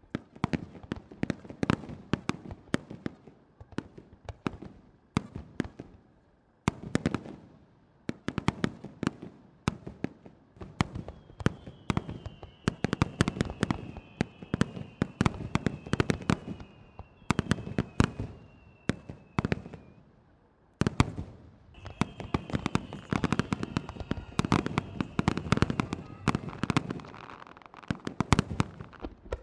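Starmine fireworks barrage: aerial shells bursting in rapid runs of loud bangs, several a second, with brief lulls about 6 and 20 seconds in. High whistles sliding down in pitch sound over the bangs through the middle and later stretches.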